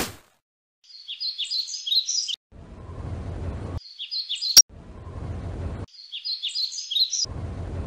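Birds chirping in three short bursts of quick high chirps. Between the bursts there is a low rushing noise, and a single sharp click comes about four and a half seconds in.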